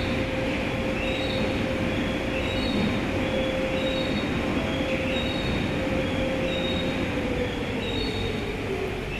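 Automatic tunnel car wash machinery running: a steady, dense rush of sprays and brushes with a steady motor whine that drops in pitch near the end. Short high squeals come and go over it.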